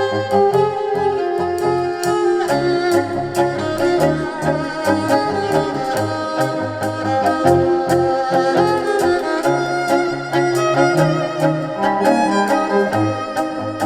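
Live band playing instrumental music: a held melody line over a moving bass line and a steady drum beat.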